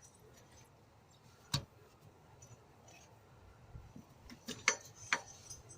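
A few sharp clicks and knocks of hand tools against metal while the auxiliary belts are being slackened and taken off: one about a second and a half in, and a quick cluster near the end.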